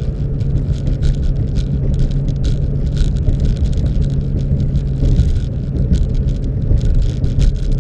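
Car engine running with a steady low hum, with many light clicks and rattles over it.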